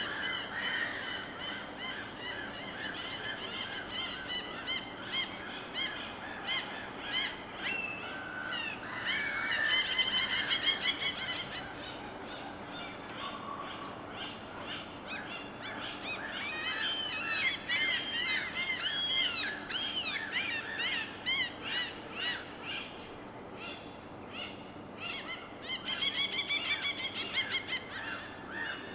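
Birds calling repeatedly in quick runs of harsh, pitched notes, in several bursts, over a soft steady background wash.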